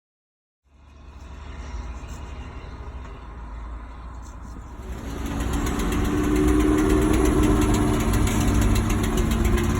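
Wacker Neuson ET145 excavator's diesel engine running. It comes in abruptly just under a second in and grows louder about five seconds in, then holds steady.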